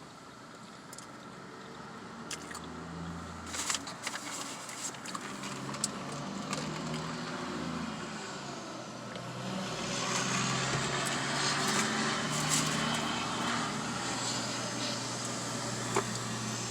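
Highway traffic heard through a half-open car window: passing cars and trucks, with a louder swell from about ten seconds in. Close chewing and crunching of food sounds over it.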